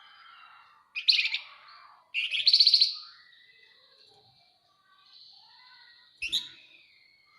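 Javan fulvetta (flamboyan) singing. Two loud bursts of rapid, buzzy chattering trills come about a second in and again right after. Thin high whistled notes follow, and a short chattering burst near the end.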